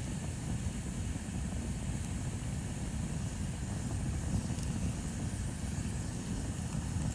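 Bonfire burning with a steady low rumble and a few faint crackles.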